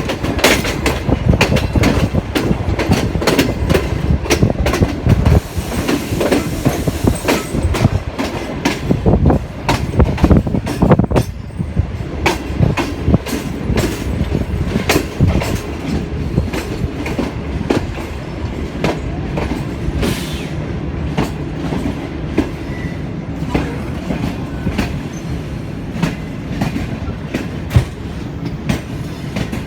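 Passenger train running, its wheels clattering over rail joints and points in quick irregular knocks over a continuous rumble. The knocks are densest in the first ten seconds or so, then settle into a steadier rumble.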